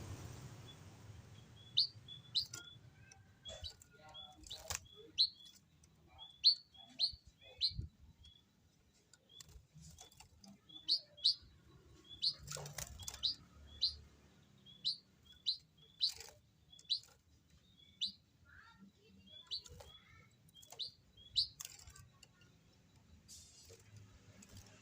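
White-headed munia (emprit kaji) giving a long series of short, high chirps, one every half second to a second, with a few sharp taps among them.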